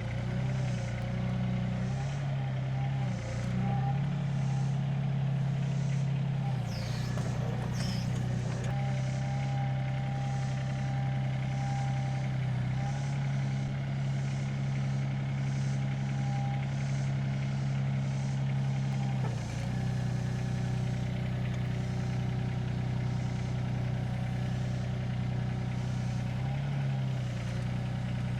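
Mini excavator engine running steadily while lifting a heavy beam. Its pitch steps up and down a few times as the load changes, and there is a brief high squeal about seven seconds in.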